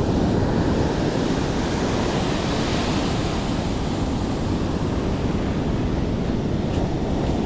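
Ocean surf on the beach, a steady rushing noise, with wind buffeting the microphone.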